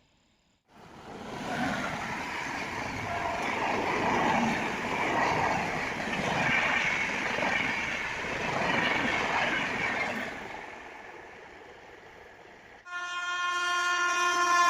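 A train passing at speed, its wheel and rail noise starting suddenly about a second in and fading away. Near the end a train horn sounds in one long blast, its pitch dropping as it passes.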